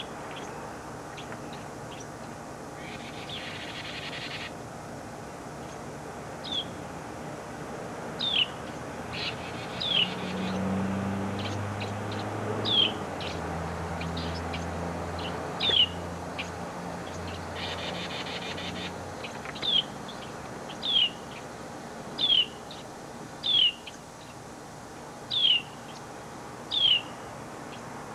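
A small bird repeating a short, high chirp that slides downward, a dozen or so times at intervals of one to two seconds, more regular in the second half.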